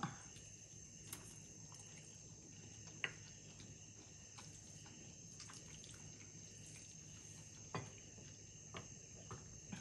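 Faint sounds of someone chewing a mouthful of noodles, with two light clicks, one about three seconds in and one near the end, over a steady faint high-pitched hiss.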